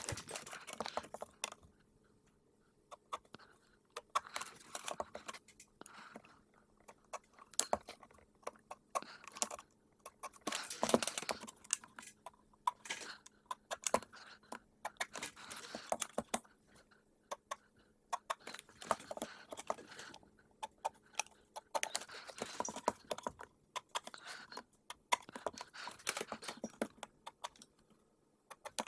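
Irregular light clicks, taps and rustling, like small objects being handled, with quiet gaps between them. The busiest stretch comes about ten to twelve seconds in.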